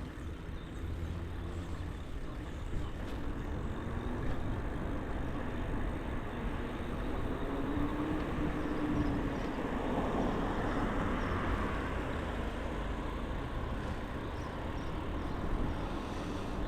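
Steady road and wind noise from riding an e-bike along a street with traffic, a little louder around the middle.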